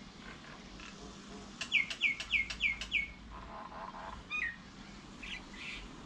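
A bird calling: a quick run of five short notes, each sliding down in pitch, about a second and a half in, followed by a single similar note and a few fainter calls.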